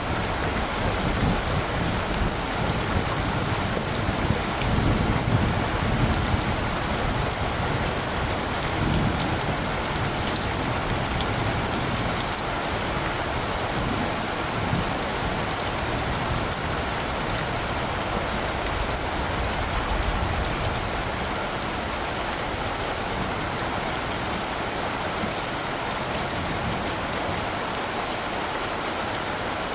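Steady heavy rain falling, a dense even patter with fine drop ticks, with low rumbles of light thunder about five and nine seconds in.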